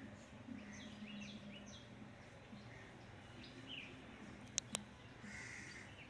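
Birds calling in the trees: a quick series of short, high calls, each falling in pitch, in the first two seconds, then a few more scattered calls, over a low steady hum. Two sharp clicks close together about four and a half seconds in are the loudest sounds.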